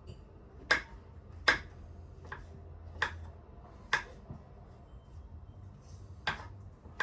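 Six sharp, separate knocks at uneven gaps of about a second, the two loudest early on, over a faint low hum.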